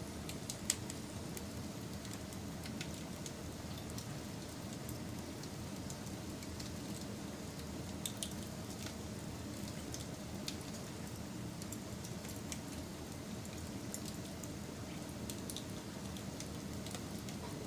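Wood fire crackling: a steady low rumble of burning with scattered sharp pops and snaps, the loudest a little under a second in.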